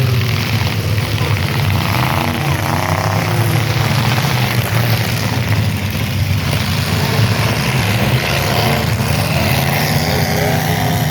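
Demolition derby cars' engines running, a dense, steady low rumble, with voices in the background.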